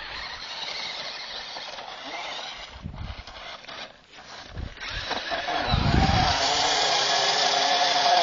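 Small battery-powered toy car's electric motor starting up about five seconds in and running with a steady high whine, after a few seconds of rustling and low thumps.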